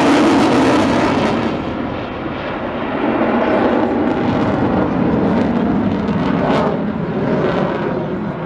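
Display aircraft flying past, a loud steady wash of engine noise whose pitch drops near the start as it passes.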